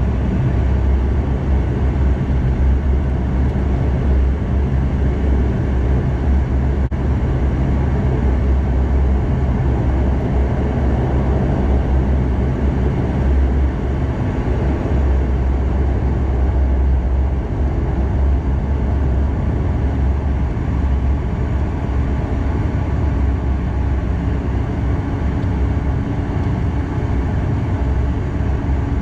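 Bombardier DHC8-Q400 turboprop engines and propellers running steadily, a low droning hum over broad cabin noise, heard from inside the passenger cabin.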